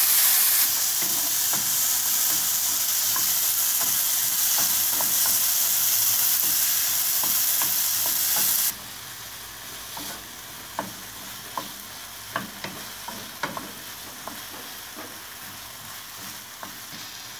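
Freshly added diced tomato sizzling in hot coconut oil in a frying pan while it is stirred with a wooden spatula. The loud sizzle drops off suddenly about halfway through; after that it is quieter, with scattered taps of the spatula against the pan.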